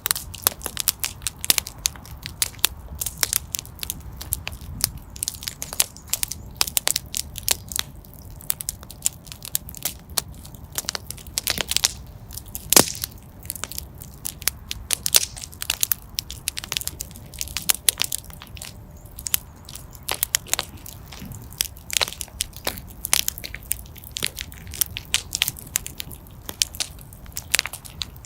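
Wood fire in a fireplace crackling, with irregular sharp pops and snaps over a low steady rumble of the flames; one pop about halfway through stands out as the loudest.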